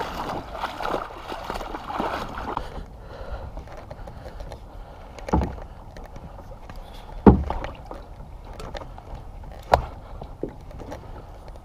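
Kayak on a river: water splashing and sloshing around it for the first couple of seconds, then quieter water with three sharp knocks, about two seconds apart, against the kayak.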